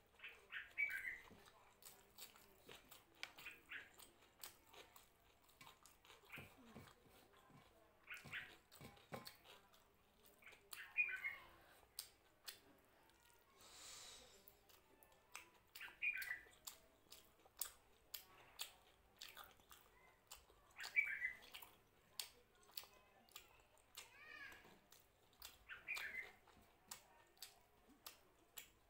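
Quiet, close-up eating sounds of a person chewing mutton curry and fried rice: many small wet clicks and lip smacks, with a louder smack every few seconds and a short hiss-like slurp near the middle.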